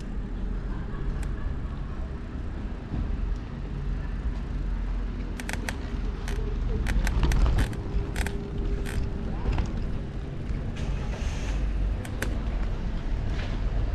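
Low wind-and-road rumble on the microphone while riding a touring bicycle, with a run of sharp clicks and rattles about midway.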